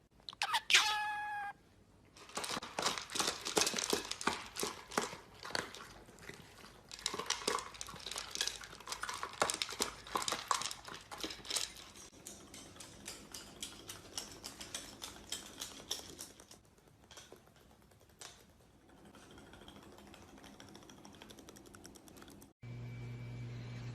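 A short falling animal call about half a second in, then about ten seconds of rapid crinkling and clicking that thins out. After an abrupt change near the end, a steady low hum.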